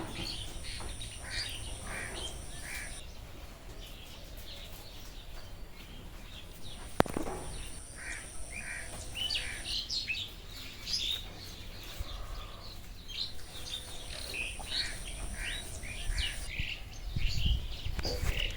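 Many birds chirping and calling in short, overlapping notes, as in a tropical forest chorus, with a steady high whine that starts and stops three times.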